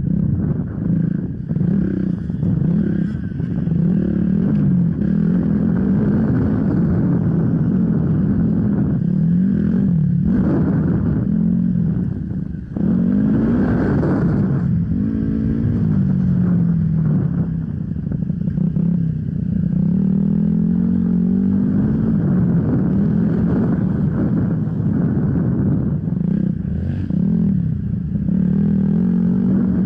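Enduro motorcycle engine running hard under constantly changing throttle, its revs rising and falling over and over, with a brief drop in revs about thirteen seconds in before it picks up again.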